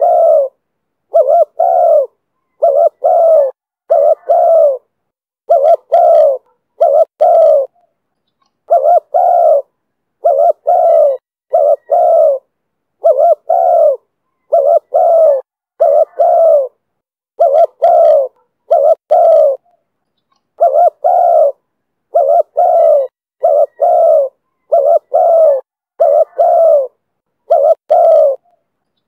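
Spotted dove (chim cu gáy) cooing over and over in the call style Vietnamese dove keepers call 'thổ thúc bổi': short low coos, mostly in close pairs, with brief gaps between the groups.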